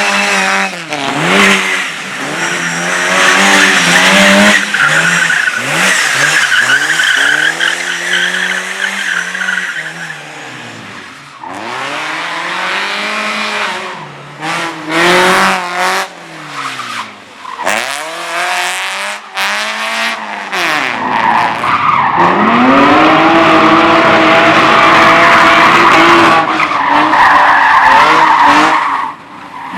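Race car engine driven hard through a slalom course. It revs up and drops off again and again through the first two-thirds, as on gear changes and lifts between gates, then holds at high revs for several seconds near the end. At times the tyres squeal.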